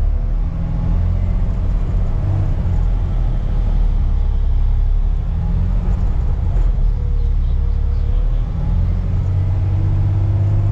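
Off-road haul truck's engine running hard as it works through deep ruts: a steady low rumble whose pitch wavers up and down.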